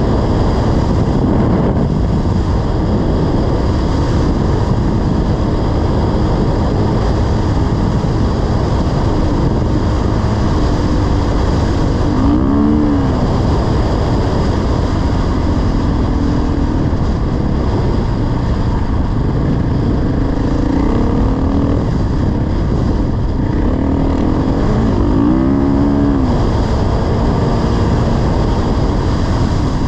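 Dirt bike engine running while riding, under steady rushing noise; its note rises and falls several times, most clearly about twelve seconds in and again near twenty-five seconds.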